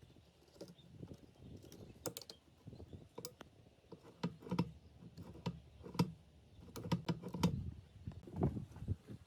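Irregular light clicks and taps, a few with a dull knock, from small parts and tools being handled during the restoration of a drill press.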